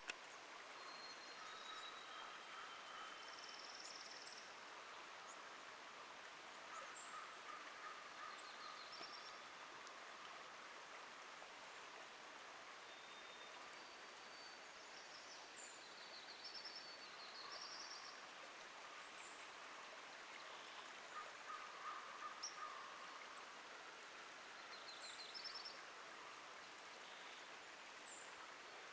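Faint ambience of many small birds calling, with short high chirps, trills and whistles, over a steady hiss of running water at a beaver dam.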